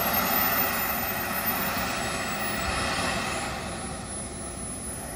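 Small gas-turbine engine of a large radio-controlled model jet running while it taxis, a steady rushing noise with a thin, very high whine that rises and then falls in pitch. It grows a little quieter toward the end as the jet moves away.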